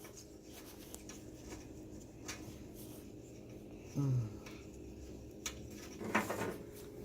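Light clicks and faint rubbing of a spark plug being turned down by hand into a small engine's cylinder head.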